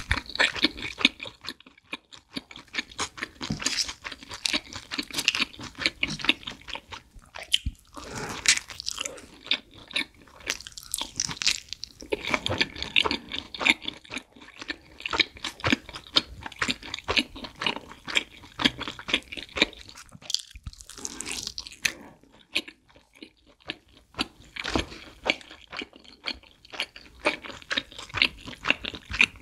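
Close-miked bites into a slice of thick-crust pizza and steady chewing, with crisp crunching of the crust in quick, irregular clicks.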